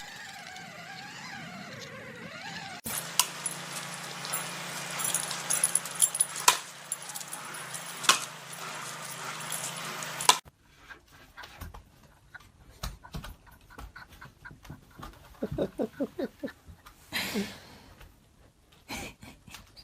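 Dog sounds from a run of short clips: a wavering, whine-like call for the first few seconds, then clicks and rustling with a steady hum. Later come scattered taps and a quick series of short sounds. The sound changes abruptly at about 3 s and again at about 10 s.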